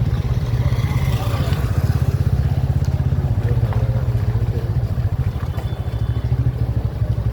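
Motorcycle engine running steadily under way, a low, even pulsing exhaust note.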